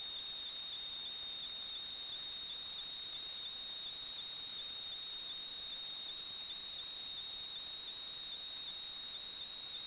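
Steady high-pitched electrical whine with a fainter overtone above it, over a constant hiss: electronic noise on the audio track of a sewer inspection camera recording.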